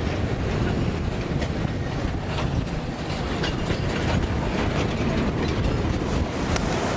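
Narrow-gauge sugar cane train running along the track, a steady rumble with scattered clicks of wheels and wagons over the rails.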